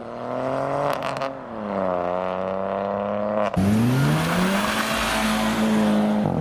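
Car engines driving away: one engine's note falls, then about halfway in a louder car accelerates hard, its engine note rising quickly and then holding loud and steady.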